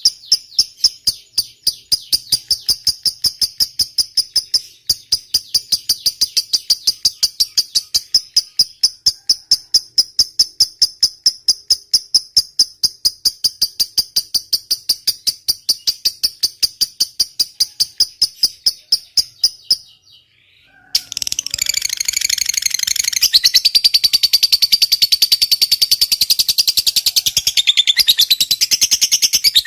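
Lovebird's long ngekek chatter: a sustained run of sharp, high notes at about four a second. It breaks off briefly about twenty seconds in, then resumes faster and denser.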